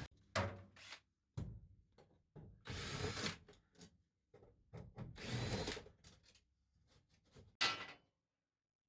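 Power drill-driver running in two short bursts of about a second each on the screws of a van body panel, the second with a faint rising whine, with clicks and knocks of handling between them.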